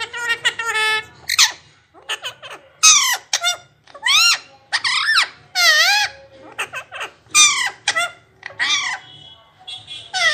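A pet talking parrot vocalising: a rapid run of about a dozen short, high, squeaky calls, each swooping up and down in pitch.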